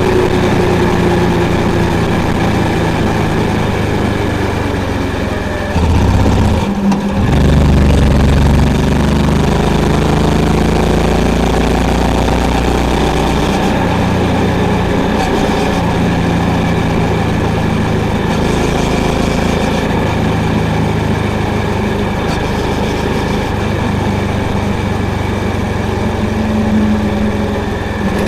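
Honda CB350's single-cylinder engine and exhaust running under way. The engine's pitch falls over the first few seconds, there is a brief break around seven seconds, and it comes back louder for a moment before settling into a steady run.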